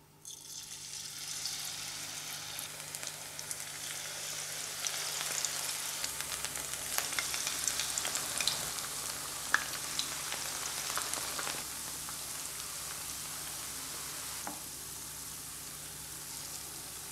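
Vegetable fritter batter frying in hot oil: a steady sizzling hiss that starts as the first spoonful goes into the pan, with scattered pops and crackles.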